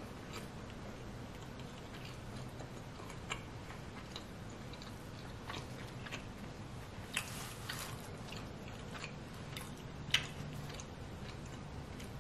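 A mouthful of pepperoni pizza being chewed with the mouth closed: soft, wet mouth clicks and smacks at irregular intervals, with a few sharper ones.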